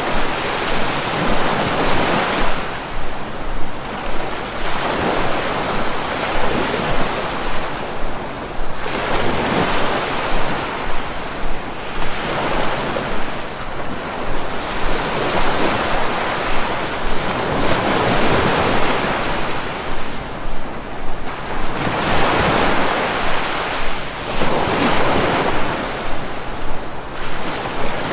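Sea waves breaking and washing on a shore, the surf swelling and ebbing every few seconds, with wind.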